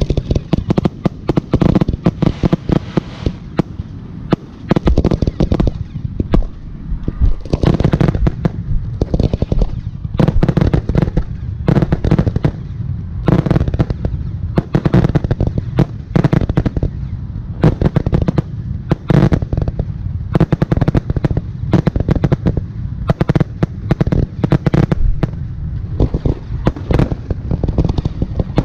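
Aerial firework shells bursting in quick, unbroken succession, several sharp reports a second with deep booms.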